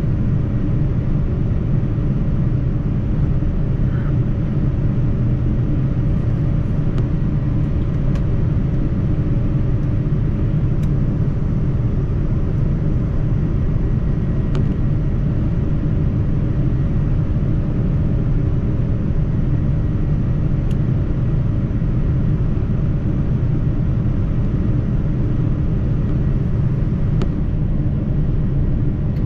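Steady cabin noise inside a Boeing 787-9 airliner: a constant low rumble of engines and airflow with a faint steady hum, and a few faint clicks scattered through it.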